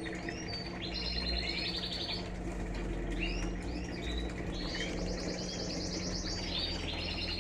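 Birds chirping and trilling again and again, with short upswept notes and buzzy trills, over a steady low hum from the Electrolux LTE12 washing machine as it tries to spin again.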